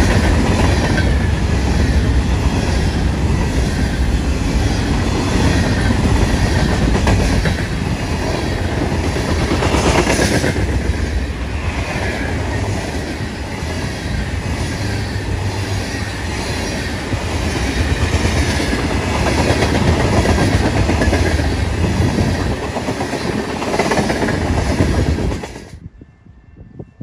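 A train passing, loud and steady: a deep rumble with the wheels clicking in a regular rhythm over the rail joints. The sound cuts off suddenly near the end.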